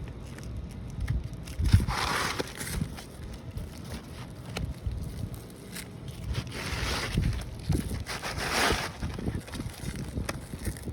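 Asphalt 3-tab shingle scraping as it is slid back in under the overlying shingles, in three gritty bursts about 2, 7 and 8.5 seconds in. Low wind rumble on the microphone underneath.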